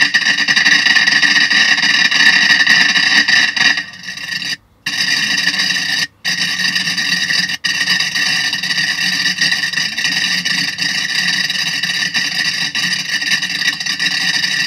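Ground fountain firework spraying sparks with a steady, loud, rasping hiss. The sound drops out suddenly twice about a third of the way in, then the hiss carries on.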